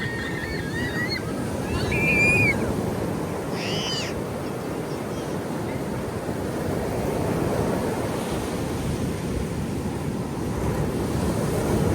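Ocean surf washing in, a steady rushing that swells and eases, with a few short high-pitched calls in the first four seconds.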